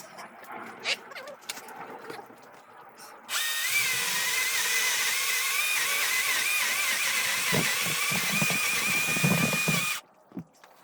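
A power drill runs for about seven seconds, starting suddenly a few seconds in and cutting off sharply. Its motor whine wavers in pitch as the load changes. A few light knocks come before it.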